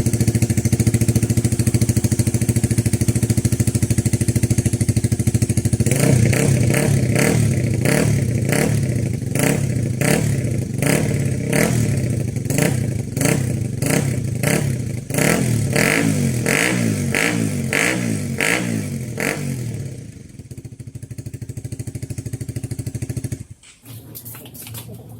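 Honda CBR150R's single-cylinder engine running through an Akrapovic full-system exhaust: it idles steadily, then about six seconds in is revved in quick repeated throttle blips, several a second, for about fourteen seconds before settling back to a quieter idle. Near the end the sound drops out briefly.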